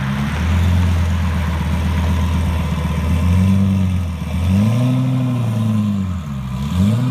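Twin-turbo Lamborghini engine revving. It holds a steady note for about three seconds, then the revs swell up and fall back three times.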